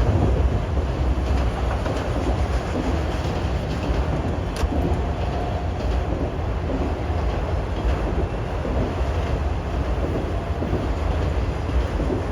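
Freight train of auto-rack cars rolling past, with steady wheel and rail noise and some clickety-clack over the rail joints.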